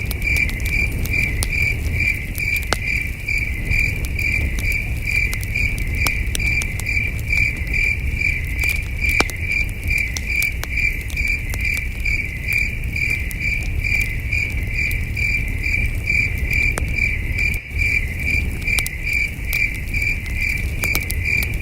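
Crickets chirping in a steady, even rhythm of about three high chirps a second, over the crackle and pops of a campfire and a low rumble.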